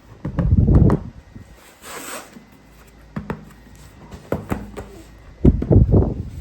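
Plastic toy being handled: two spells of rubbing and knocking, about half a second in and near the end, with a short hiss about two seconds in and a few sharp clicks between.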